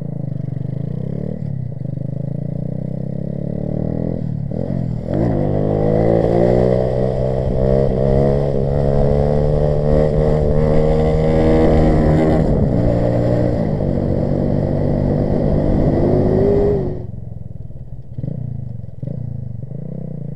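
Grom-clone mini motorcycle's small single-cylinder engine held at hard throttle through a sit-down wheelie. It climbs in pitch from about five seconds in, holds high and loud for several seconds, then drops back sharply near the end as the throttle is closed.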